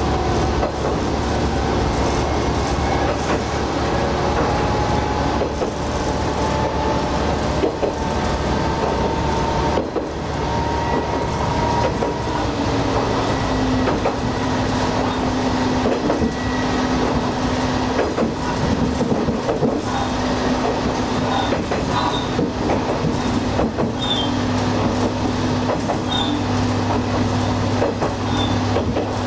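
Diesel railcar running along the line: steady engine and wheel-on-rail noise, with a whine that climbs slowly in pitch over the first dozen seconds, then gives way to a steady lower hum.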